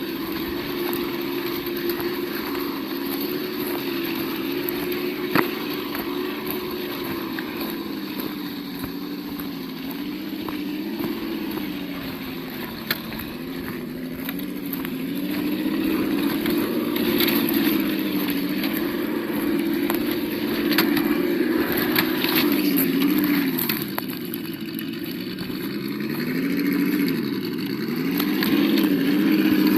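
Simulated engine note from the sound module of an Absima Yucatan 1:8 RC crawler, its pitch rising and falling as the throttle changes, with a few sharp clicks from the truck working over the ground.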